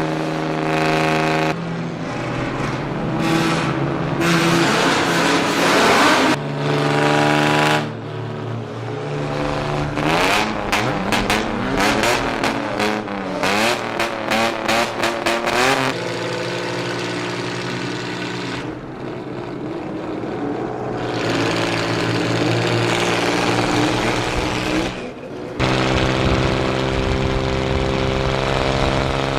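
Modified vehicle engines with loud aftermarket exhausts, in a run of short clips that change abruptly: steady idling alternates with throttle revs, with a stretch of rapid repeated revving about ten to sixteen seconds in.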